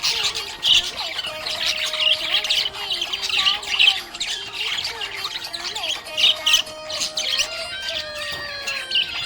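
Budgie chattering: a fast, continuous run of high chirps and squawks.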